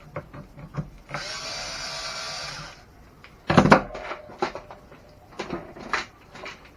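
Small electric screwdriver whirring for about a second and a half while backing out a screw, with clicks and taps of small parts and metal hardware being handled. A louder clatter comes midway.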